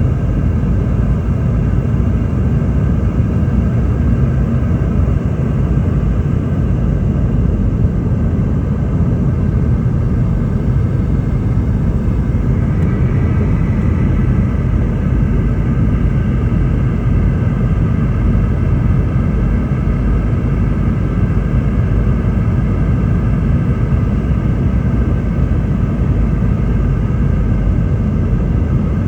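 Steady roar inside the cabin of a Boeing 717-200, from its two rear-mounted Rolls-Royce BR715 turbofan engines, with a few faint steady whining tones over it; one whine grows a little stronger about twelve seconds in.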